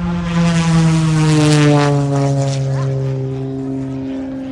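Propeller airplane flying past, its engine and propeller drone growing loudest about a second and a half in and then sliding down in pitch as it passes by.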